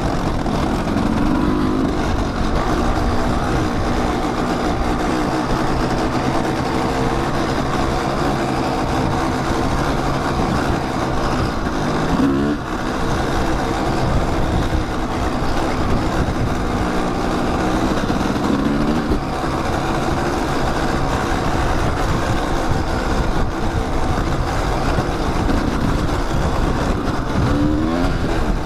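Kawasaki dirt bike engine running while riding a trail. The pitch climbs and drops with the throttle several times, with sharp rises about 12 and 28 seconds in.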